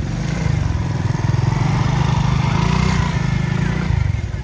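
A small engine running steadily with an even low pulse, getting a little louder in the middle.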